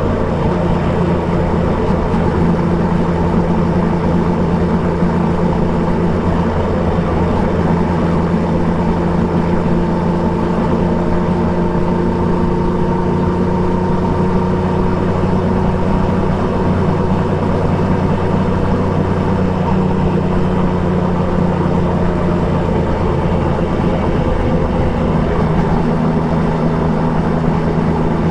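Triumph Trident 660's three-cylinder engine, fitted with an Akrapovic exhaust, running at fairly steady revs while riding, its pitch easing briefly a few seconds before the end.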